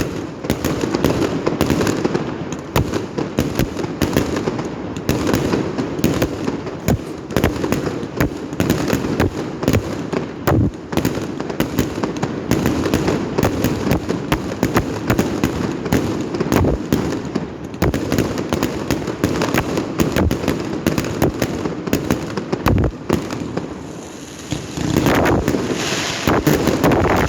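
Fireworks going off without pause: a dense, rapid run of overlapping bangs and crackles.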